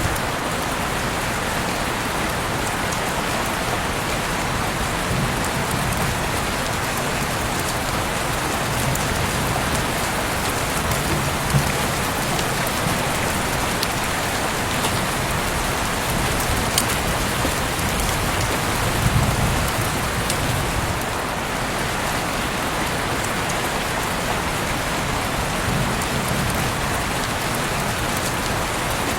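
Heavy rain falling steadily: a dense, even hiss of rain with a few sharper drop taps standing out.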